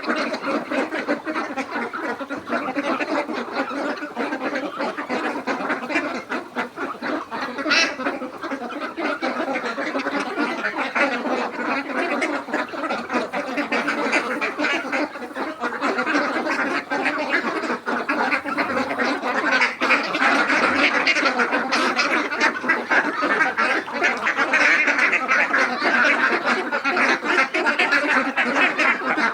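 A flock of Khaki Campbell ducks quacking, many calls overlapping into a continuous chatter that grows louder in the last third.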